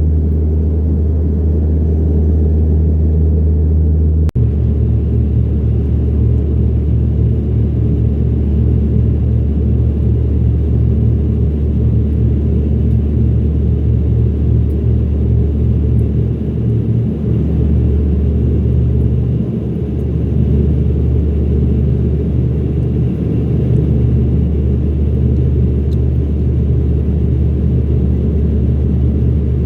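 Steady low drone of an Embraer EMB-120 Brasilia's twin Pratt & Whitney Canada PW118 turboprop engines and propellers, heard inside the passenger cabin in flight. A brief break about four seconds in, after which the hum's pitch pattern shifts slightly.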